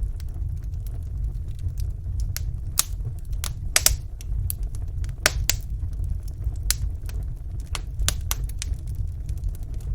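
Wood fire burning in a fireplace, with irregular sharp crackles and pops over a low steady rumble of the flames.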